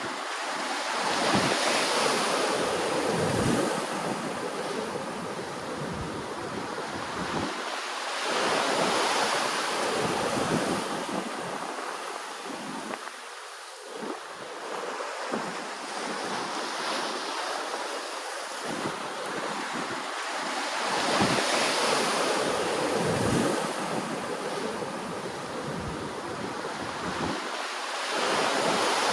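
Ocean waves breaking and washing in, a continuous wash that swells louder every several seconds as each wave comes in.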